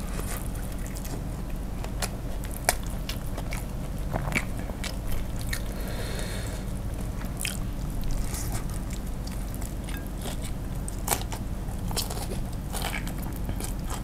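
Close-miked biting and chewing of crispy fried chicken coated in spicy sauce, with irregular sharp crunches of the crust.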